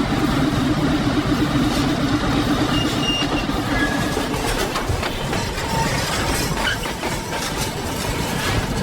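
Freight train running on rails: a steady rumble with scattered clicks.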